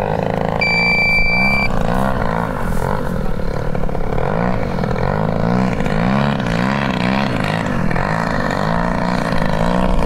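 Engine of a 100cc gas-powered giant-scale RC aerobatic plane running in flight, its pitch swinging up and down again and again as the throttle and the plane's passes change. A high electronic beep lasting about a second sounds near the start.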